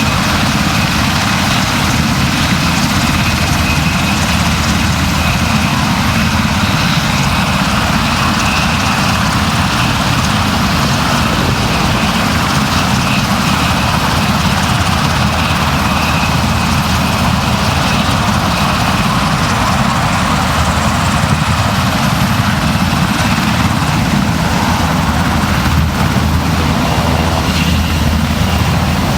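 Loud, steady drone of an aircraft running, with no change in pitch or level.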